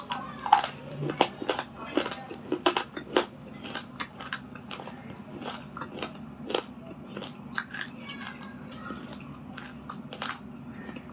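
Close-up biting and chewing of a hard, chalky material: sharp, irregular crunches, loudest and closest together in the first three seconds, then quieter, scattered crunching.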